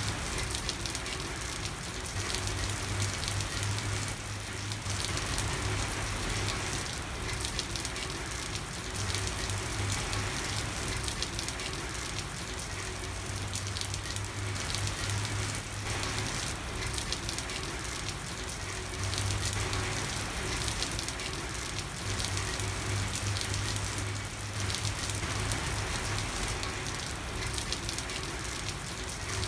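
Steady rain falling on a street, a dense even hiss of many drops pattering on hard surfaces. Under it runs a low hum that comes and goes every few seconds.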